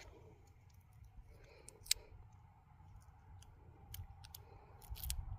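Faint scattered sharp clicks and crinkles of paper handling as vinyl transfer paper is pressed and smoothed into place, the loudest click about two seconds in and a small cluster near the end.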